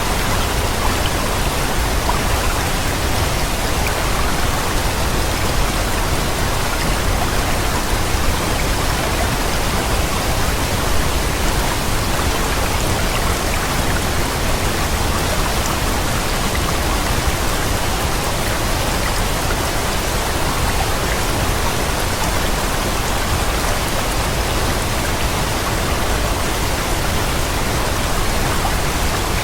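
Waterfall's steady rush of falling water, an even unchanging noise with a deep rumble underneath.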